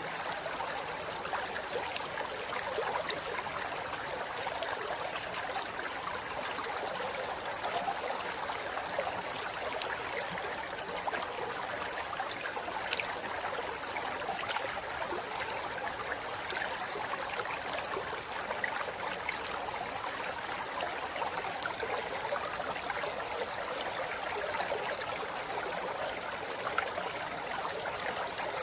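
Forest river flowing steadily over rocks: a continuous rush of water, splashing and gurgling.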